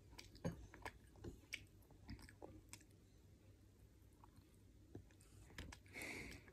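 A young child faintly chewing a mouthful of frosted corn flakes in milk: small irregular crunches and mouth clicks, more of them in the first few seconds, then a soft breath near the end.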